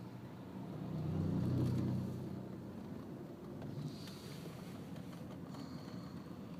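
Car engine and road noise from a slowly moving car, swelling louder about a second in, then settling to a steady low rumble.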